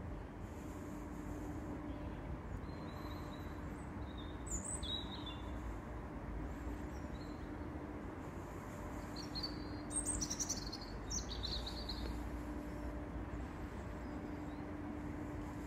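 Small birds chirping with short, high calls scattered throughout, busiest about ten seconds in, over a steady low rumble and a faint hum.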